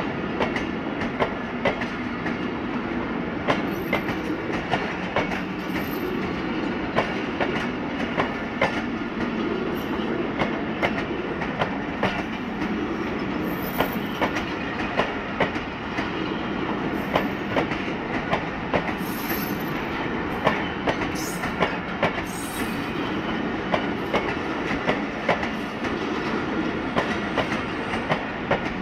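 Passenger coaches of a departing Pakistan Railways express train rolling past close by: a steady rumble with wheels clicking over the rail joints again and again, and a few brief high wheel squeals.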